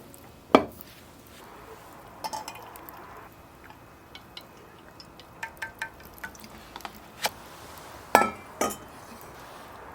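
Scattered clinks and knocks of tableware: a sharp knock about half a second in, a run of small light taps around the middle, and two louder clinks with a short ring near the end.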